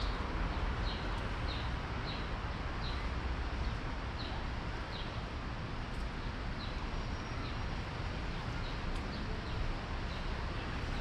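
A bird chirping over and over, short falling chirps about twice a second, over a steady background of outdoor noise and low rumble.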